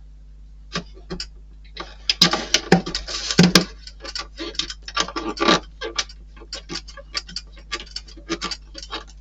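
Small plastic model-kit parts and screws being handled and fitted: a run of irregular clicks and rattles, a few at first, then dense from about two seconds in, over a steady low electrical hum.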